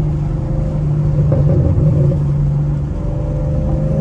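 Straight-piped Chevrolet Camaro SS V8 exhaust droning steadily while the car drives along at an even pace.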